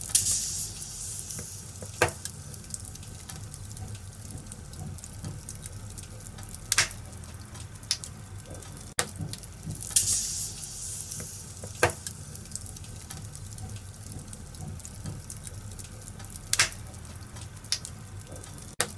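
Wood fire burning in a fireplace: a steady hiss and crackle broken every few seconds by sharp pops.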